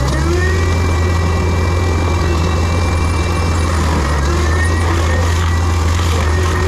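Forestry mulcher's diesel engine running steadily at constant speed, with a thin high whine that slowly wavers in pitch.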